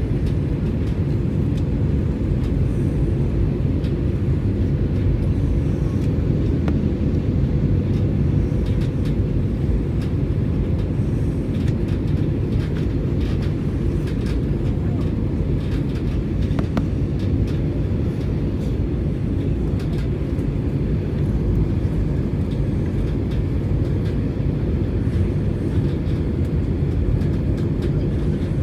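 Steady low rumble of engine and airflow noise inside the cabin of an Airbus A320-200 airliner in flight, even throughout with no sudden changes.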